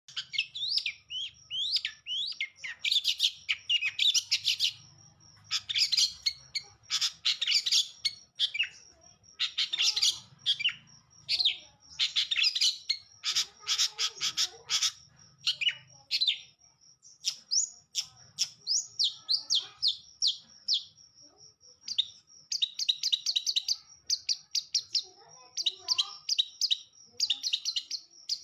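Long-tailed shrike in full song: repeated bursts of rapid, high, varied chattering and trilling notes, each burst a second or two long with short pauses between.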